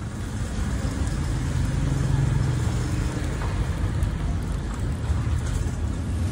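Motor vehicle engine running close by: a steady low rumble with a faint hum, amid street traffic noise.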